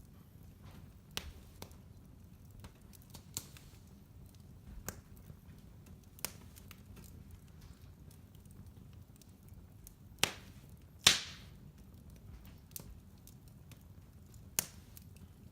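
Wood fire crackling in a fireplace: irregular sharp pops and snaps over a low steady rumble, with two louder pops about ten and eleven seconds in.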